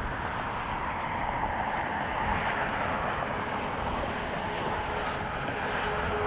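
Jet airliner engines running: a steady rush with a faint whine held through it.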